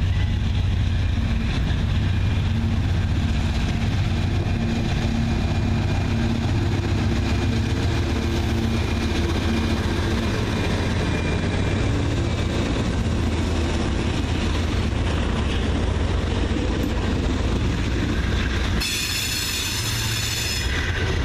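CSX freight train's diesel locomotives passing close by: a steady engine drone over the rumble of wheels rolling on the rails. About 19 seconds in, a high, ringing wheel-on-rail whine comes in.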